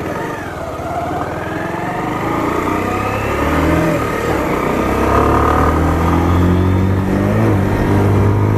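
Bajaj Pulsar motorcycle's single-cylinder engine accelerating, its pitch climbing over the first few seconds, dipping briefly, then running steadily and louder.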